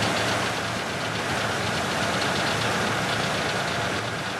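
Tugboat engine running steadily, a low hum under mechanical noise. The engine is losing power because some of its fuel supply joints have broken off.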